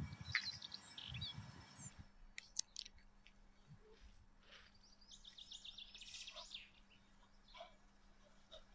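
Small birds chirping, with short high calls and a quick falling trill a little past the middle, over faint street background noise; a low rumble in the first couple of seconds.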